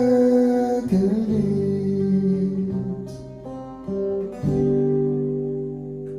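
Acoustic guitar playing the closing chords of a song, a few strummed chords with the last one left to ring out and fade. A held sung note ends about a second in.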